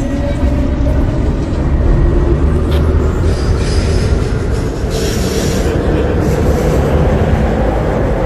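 MTR C-Train electric multiple unit running, heard from inside the car: a steady low rumble of wheels on track, with a high wheel squeal from about three to five seconds in as the train takes a curve.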